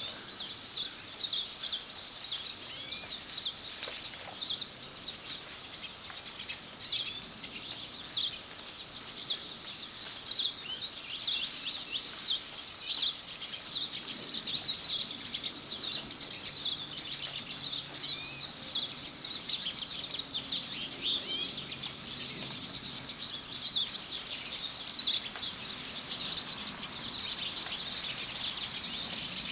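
Many birds chirping together, a dense stream of short, high-pitched calls overlapping one another.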